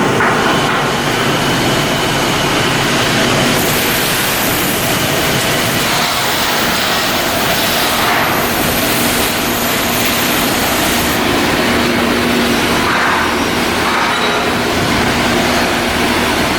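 Loud, steady mechanical noise of shipyard work, with a faint high whine in the middle and a low hum underneath.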